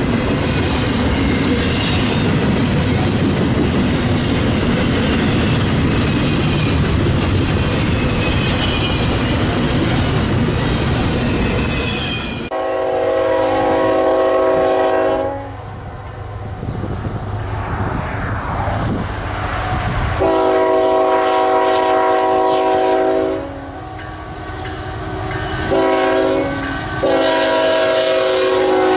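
A double-stack intermodal train rolls past close by with its wheels clattering over the rail joints. Then an approaching Norfolk Southern freight locomotive sounds its air horn as a chord of several notes, in four blasts: long, long, short, long, the grade-crossing signal.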